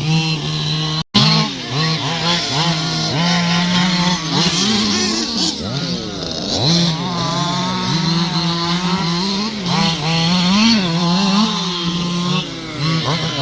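Several radio-controlled model cars running on a track, their motors revving up and down in overlapping buzzing whines. A brief dropout about a second in.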